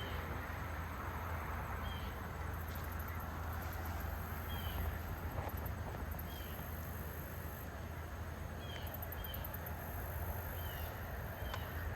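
A bird repeats a short, high, down-hooked call every second or two, while insects trill in quick pulses high up, over a steady low hum.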